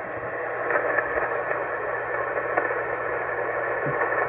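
Shortwave ham radio receiver tuned to the 20-meter band, giving a steady hiss of band noise held within the narrow voice passband of single-sideband reception, between transmissions of the net.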